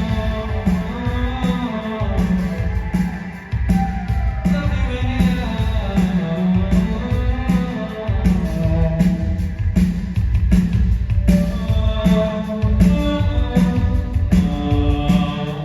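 Live band music with a steady beat and a singing voice, dipping briefly about three and a half seconds in.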